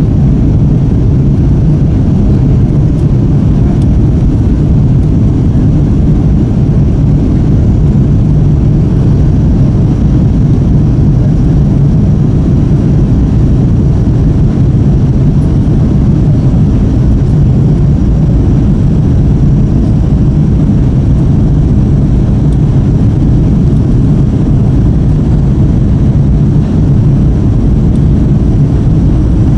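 Steady low rumble of a Boeing 777-200ER's Rolls-Royce Trent 892 engines and airflow, heard inside the passenger cabin while the jet climbs out after take-off.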